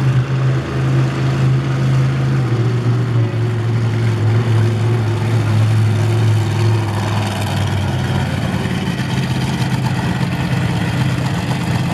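Monster truck engine running steadily at low revs, a deep loud hum that steps down slightly in pitch about two and a half seconds in.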